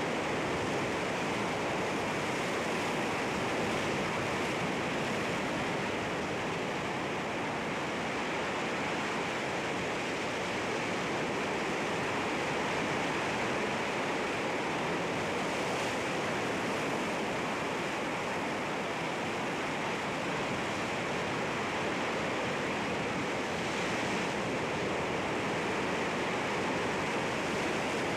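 Sea waves washing against rocks: a steady, continuous rush of surf with very little rise and fall.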